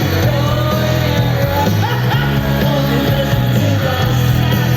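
Live rock band playing loud, with heavy bass, and a woman singing a bending melody over it.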